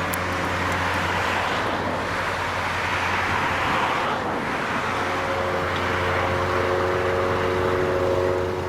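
Jet airliner engines running with a steady rush, a whining tone joining in about five seconds in.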